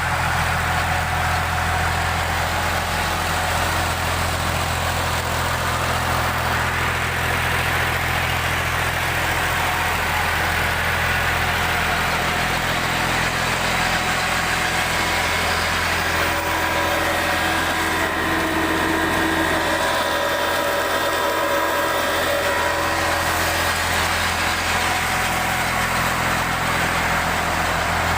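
Ghazi 65 HP tractor's diesel engine idling with a steady low hum, which thins briefly about two-thirds of the way through.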